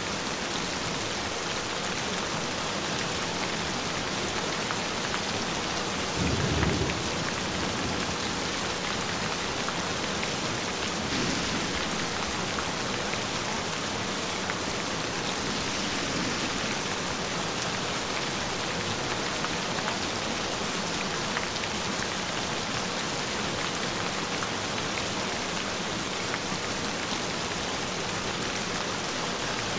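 Steady rain falling, with a short low rumble of thunder about six seconds in and a fainter one near eleven seconds. A faint steady tone sits underneath the rain.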